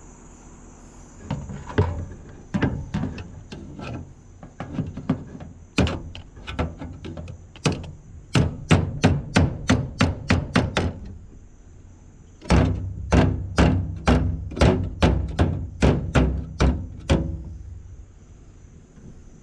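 Hammer blows, irregular knocks at first and then two quick runs of strikes, about four a second, starting around eight seconds and twelve seconds in.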